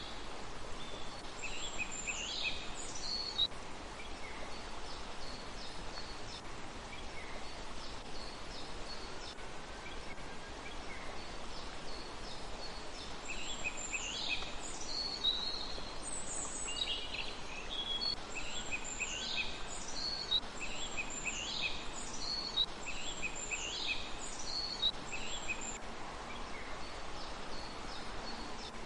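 A small songbird singing in short repeated phrases of quick, high notes that sweep downward, a few near the start and then a longer run through the middle and later part, over a steady background hiss.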